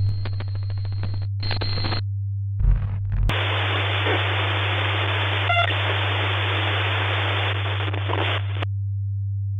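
Glitch-effect static over a steady low electrical hum: crackling clicks and hiss for the first two seconds, a brief low thud, then a band of hiss that cuts off suddenly about nine seconds in, leaving only the hum.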